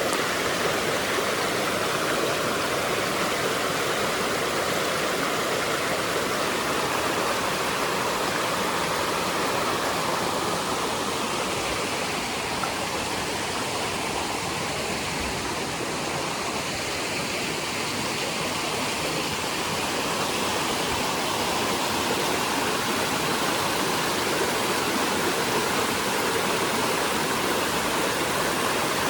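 Steady rushing of fast-flowing water in a mountain stream.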